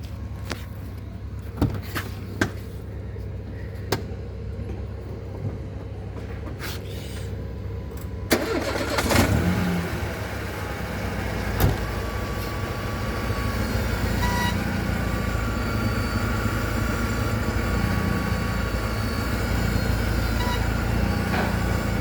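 Mercedes-Benz A160 engine idling, with a few light clicks. About eight seconds in, a louder running noise with a steady whine sets in as the front wheels are turned to check play in a worn stabilizer link.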